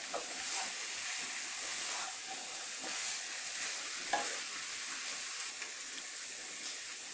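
Shrimp, fig and potato masala sizzling in a nonstick pan while a wooden spatula stirs it. There is a steady hiss with light scrapes of the spatula, one a little sharper about four seconds in.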